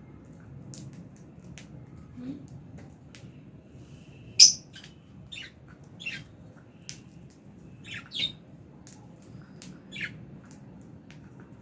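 Lovebirds chirping in a series of short, sharp high calls, scattered irregularly, with one much louder call about four seconds in.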